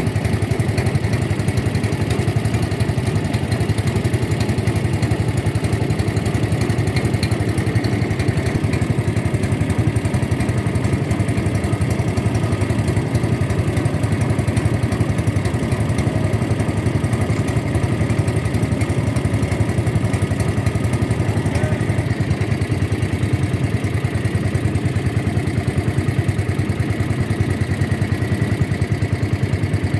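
Boat engine running steadily at constant speed, close to the microphone, its firing pulses even and unchanging throughout.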